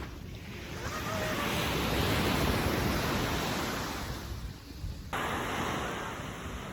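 Sea waves washing in, with wind on the microphone; the surf swells about a second in and fades, and the sound changes abruptly about five seconds in.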